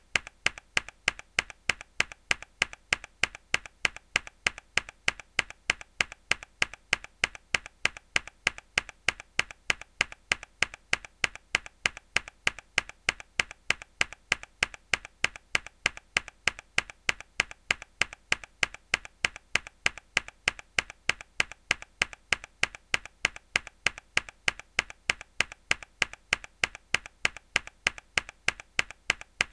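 A mechanical keyboard key struck hard, over and over at an even pace of about three presses a second. Each press is a sharp plastic click with a softer click just before it.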